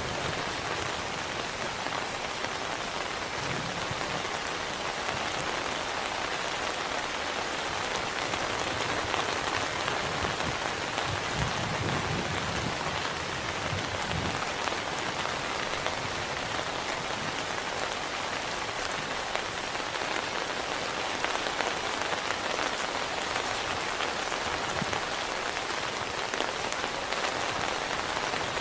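Heavy rain falling steadily, an even hiss of drops without a break.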